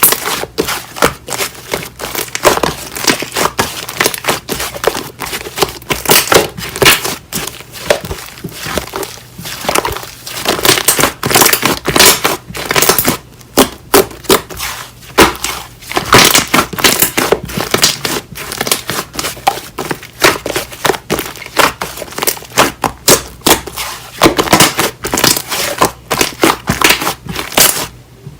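Slime being squeezed, stretched and pressed by hand: a rapid, irregular run of short sticky pops and clicks, with a brief lull about halfway through.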